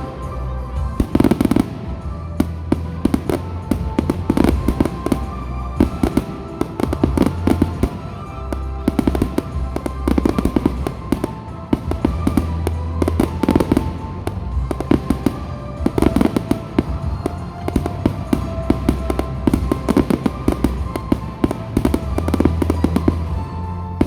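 Fireworks display: shells bursting and crackling in rapid, dense succession, many sharp bangs a second, with music playing underneath.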